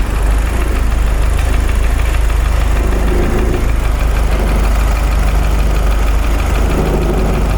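GM Astra four-cylinder engine idling steadily, freshly fitted with a new water pump, timing belt and tensioner.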